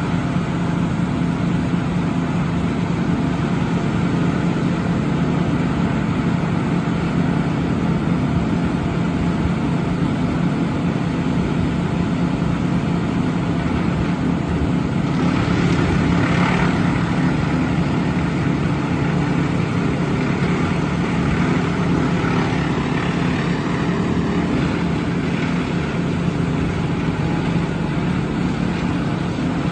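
Heavy diesel truck engine running steadily with a low, even drone, with a brief swell of louder noise about halfway through.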